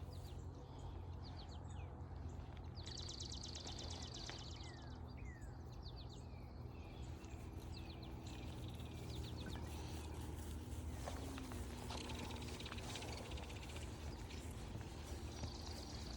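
Wild birds calling: short downward-sliding chirps and several fast, high, buzzy trills, each about a second long, over a steady low rumble.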